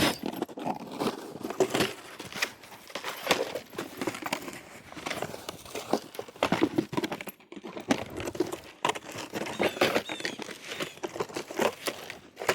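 Snow crunching in an irregular run of short crunches and crinkles.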